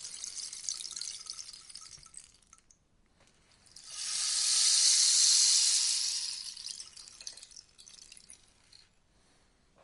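Rainstick tipped over, its beads trickling down through the tube with a fine rain-like patter that fades out, then a second, louder rushing pour about four seconds in that swells and dies away, leaving a few last scattered grains.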